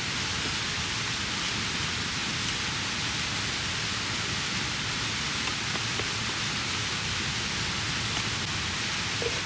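Mountain stream running steadily, a constant rushing of water with a few faint ticks over it.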